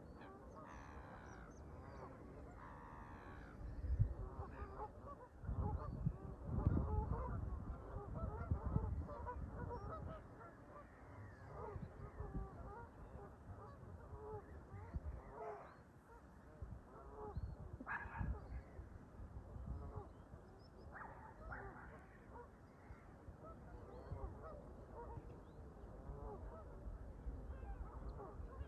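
Canada geese honking, many short overlapping calls from a flock. Low rumbling gusts of wind on the microphone come in about four seconds in and again from about six to nine seconds, the loudest part.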